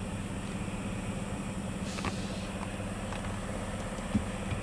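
Car engine idling steadily, heard from inside the cabin as a low even hum, with a short hiss about two seconds in.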